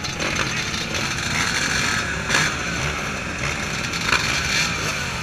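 Motocross dirt bikes' engines running and revving, heard as a dense noisy rumble with wavering pitch, with a few short sharp knocks.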